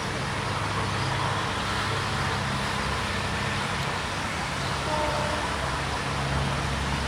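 Steady vehicle rumble with a low, even engine hum underneath, no sudden knocks or horn.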